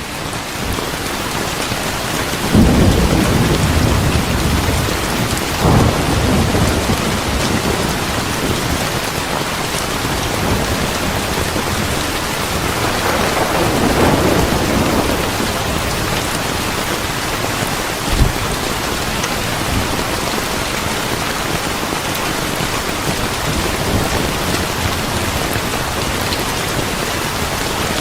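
Steady heavy rain with several low rolls of thunder swelling up and fading, one short thump among them.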